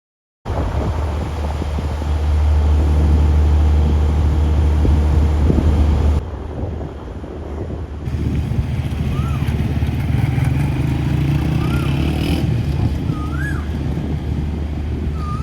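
Busy street traffic, mostly the engines of motorcycles and cars, with the sound changing abruptly twice as shots change. In the second half, short high chirps come every couple of seconds over the traffic.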